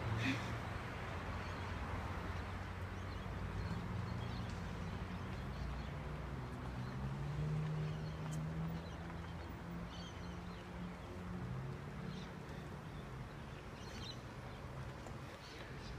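Electric passenger train's low rumble and hum, fading slowly as it moves away, with scattered short bird chirps.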